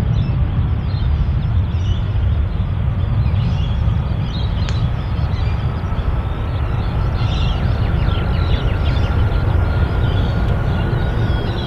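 Jet engines of a Boeing 787-8 Dreamliner (General Electric GEnx turbofans) running at high power: a loud, steady, deep rumble, with a faint whine that rises slowly in pitch from about four seconds in.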